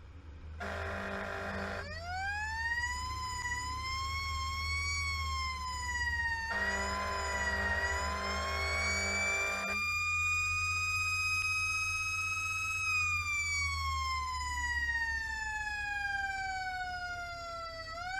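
Fire engine responding with its siren: a wail that winds up, wavers, holds high, then slowly winds down before rising again near the end. Two long horn blasts sound over it, one near the start and one in the middle, above the steady low rumble of the engine.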